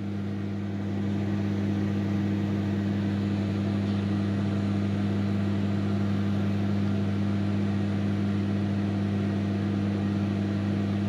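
Microwave oven running with a steady low hum while the cake bakes, getting slightly louder about a second in.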